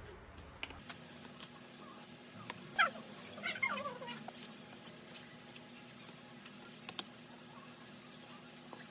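A small animal's cries, two short calls falling in pitch about three seconds in, with a few faint clicks around them.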